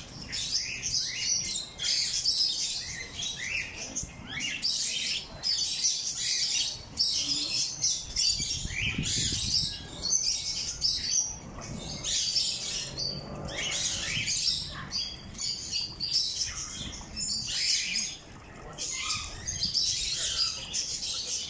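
Many small aviary birds chirping and tweeting at once, a dense, unbroken chatter of short high calls.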